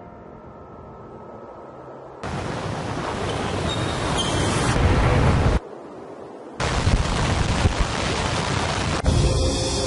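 A fading music chord, then a loud rushing roar that starts suddenly about two seconds in and swells. It cuts off abruptly for about a second, starts again, and pitched music returns near the end.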